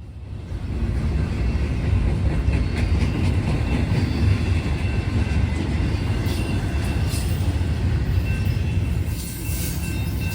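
Passing CSX intermodal container train: cars rolling by on the rails with a steady low rumble and scattered clicks of wheels over the track. Faint thin wheel squeal comes in about halfway through.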